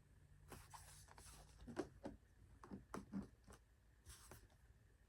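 Quiet handling of a foam RC airplane fuselage: soft rustles and a string of small knocks and clicks.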